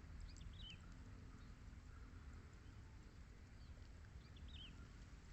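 Faint short bird chirps in two small groups about four seconds apart, over a low steady rumble.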